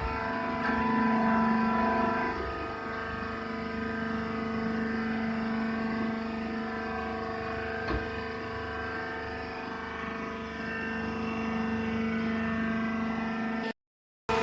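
Wheat husk baling machine running with a steady mechanical hum made of several held tones, a single click about eight seconds in. The sound cuts out abruptly just before the end.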